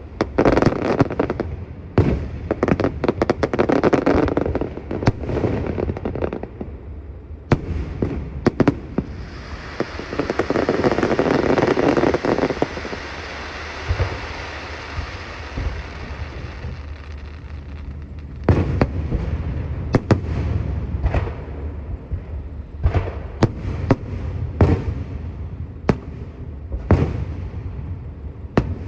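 Fireworks going off: a quick run of sharp bangs and crackles, then a stretch of steady hissing crackle that swells and fades, then more scattered bangs.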